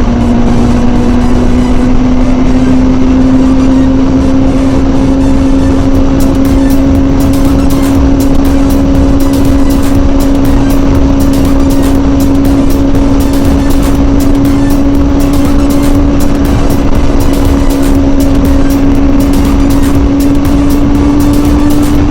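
Kawasaki ZZR600 inline-four engine running at high revs at highway speed, a steady drone whose pitch creeps slowly up as the bike gains speed, under a constant rush of wind noise.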